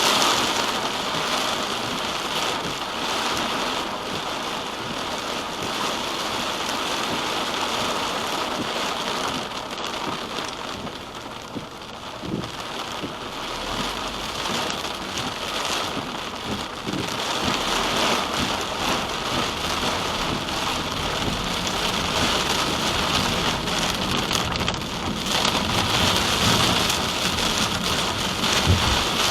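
Rain falling steadily on a moving car, a dense even hiss that eases a little around ten to twelve seconds in.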